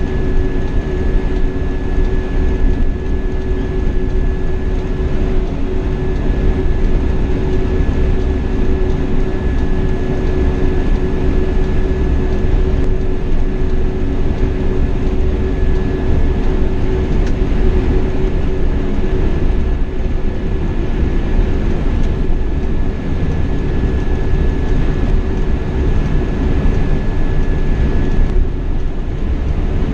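Scania K420 double-decker coach under way at a steady pace: constant engine and road rumble with a steady low hum and a thin, steady high whine over it.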